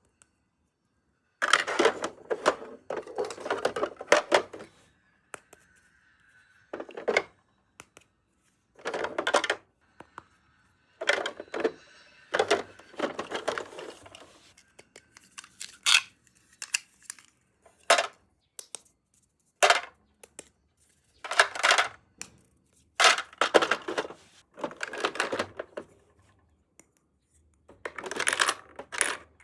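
Small plastic toy pieces being handled and set down, clicking and clattering in short bursts with quiet pauses between.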